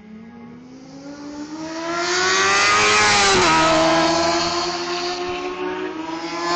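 Superbike race motorcycle passing at speed: its engine note climbs in pitch and grows loud as it nears, then drops sharply in pitch as it goes by about three and a half seconds in, and runs on at a steady lower note. Another engine grows louder near the end.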